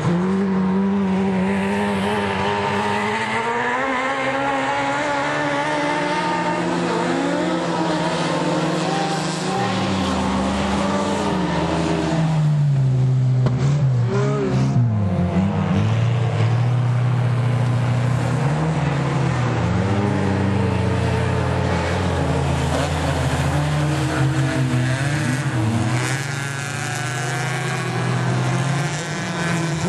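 Ice-racing car engines revving hard and easing off, the pitch climbing and dropping again and again.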